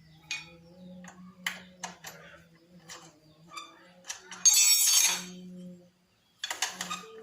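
Metal clinks and taps of hand tools on a motorcycle exhaust, with a louder scraping rattle lasting about a second partway through and a brief cut to silence near the end.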